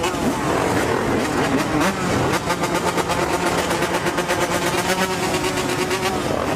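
Several dirt bike and quad engines revving, their pitch climbing and falling, with one engine holding a steady note for a few seconds in the middle.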